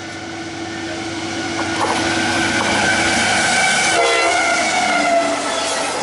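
CSX diesel freight locomotive passing close with its horn sounding a steady chord, growing louder as it approaches. About four seconds in the engine goes by, the horn drops slightly in pitch, and the rumble and rattle of the container cars follows.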